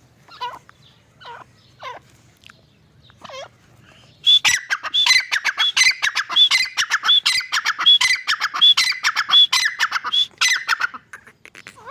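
Grey francolin calling: first a few single falling notes, then about four seconds in a loud, fast, rhythmic run of repeated high notes that goes on for about seven seconds and stops near the end.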